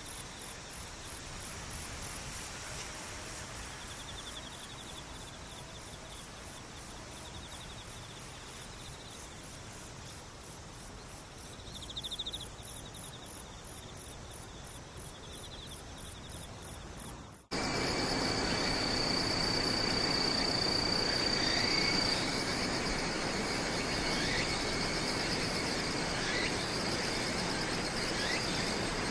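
Insects chirping: a very high chirp repeats about two and a half times a second over a fainter trill. About two-thirds of the way through it cuts suddenly to a denser, steadier insect chorus with a continuous high trill and scattered short chirps.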